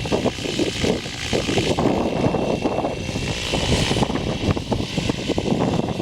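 Electric T-REX 700 F3C RC helicopter running in flight, a steady high whine over the rotor noise, with strong gusty wind buffeting the microphone.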